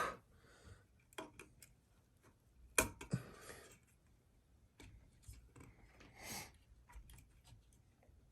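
Scattered light clicks and taps with a few brief scrapes, from small screws and metal fan parts being worked loose and handled by hand.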